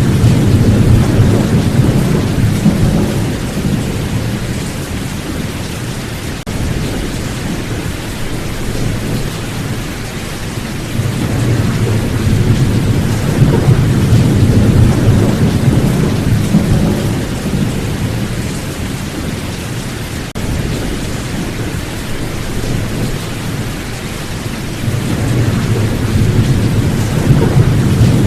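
Steady rain with thunder rolling in deep, drawn-out rumbles that swell and fade, three times: at the start, in the middle, and again near the end.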